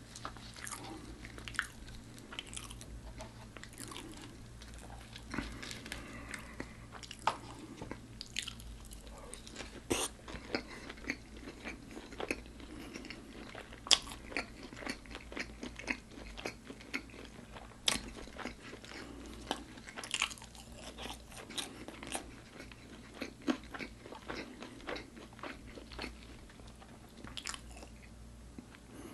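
Close-miked crunching and chewing of crispy fried food: irregular sharp crunches from bites, with quieter chewing between them.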